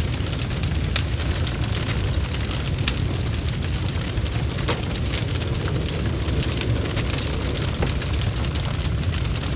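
Bonfire crackling: frequent sharp snaps and pops scattered irregularly over a steady low rumble of burning.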